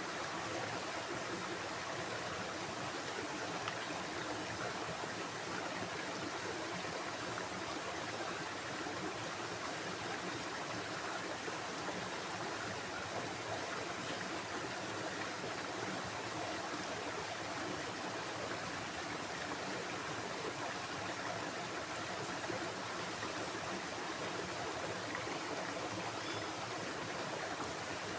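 Steady rushing of a flowing stream, unbroken and even throughout.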